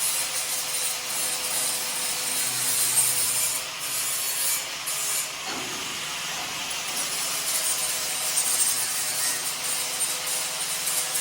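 Steady rasping, hissing noise of shop metalwork on a steel chassis, running on without a break.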